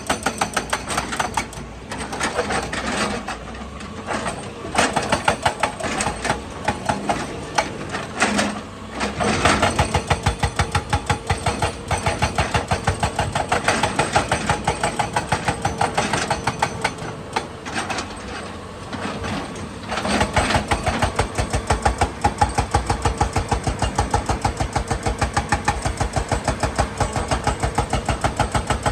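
Excavator's diesel engine running with an even, rhythmic pulsing, the deeper pulsing growing stronger about twenty seconds in.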